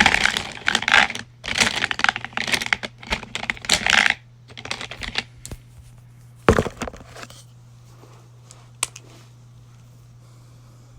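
Small plastic makeup items being handled and rummaged through: a flurry of quick clicks and clatters for about four seconds, then a few scattered clicks with one sharp louder click a little past the middle. A steady low electrical hum runs underneath.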